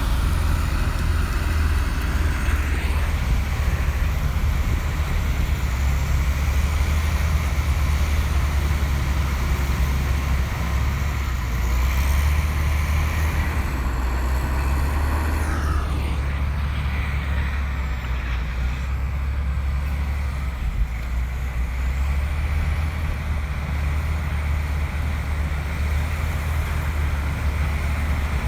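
Komatsu crawler bulldozer's diesel engine running steadily under load with a deep rumble, with a brief falling squeal about fifteen seconds in.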